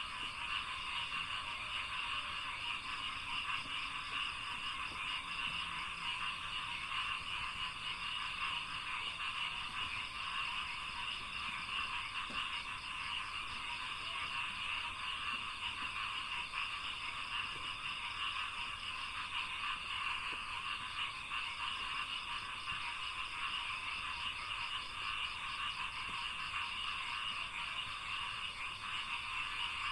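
Dense chorus of many frogs calling together, a steady, unbroken din.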